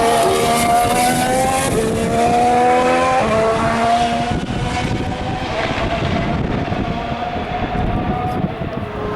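A 2014 Formula One car's 1.6-litre turbocharged V6 accelerating, its pitch rising steadily and dropping at quick upshifts about one and a half and three seconds in. From about halfway its note fades into a rumble of engine and track noise.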